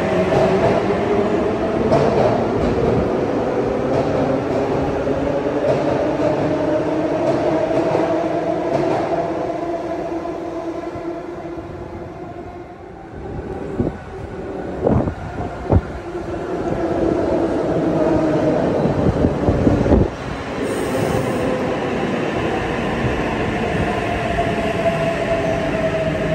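Double-deck electric suburban train in an underground station, its motor whine and wheel rumble fading as it pulls away. A few sharp knocks follow about halfway through. Then another train's motor whine and rumble build up as it runs along the platform.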